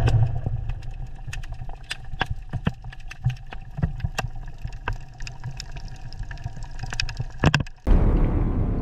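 Heavy machinery running with a low rumble, with many scattered metallic clicks and knocks. About eight seconds in it changes abruptly to a louder rushing noise.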